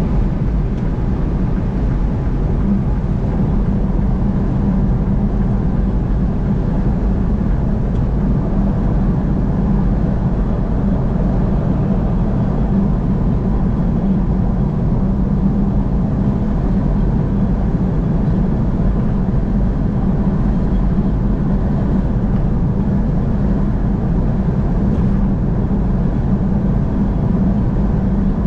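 Steady road and engine noise of a vehicle cruising on a highway: a constant low rumble with no distinct events.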